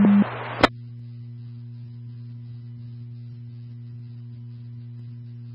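Emergency radio scanner between transmissions: the hiss of the last transmission cuts off, a single click follows (the squelch closing), then a steady low electrical hum.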